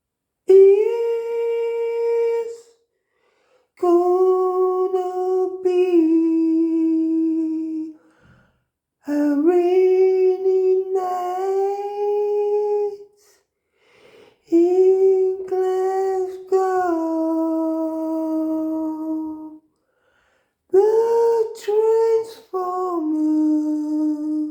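A voice singing long wordless notes in about five slow phrases, with short pauses between them and the pitch stepping between a few notes.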